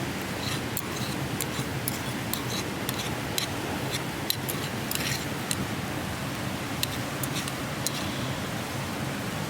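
Wood campfire crackling: irregular sharp pops, a few a second, over a steady hiss.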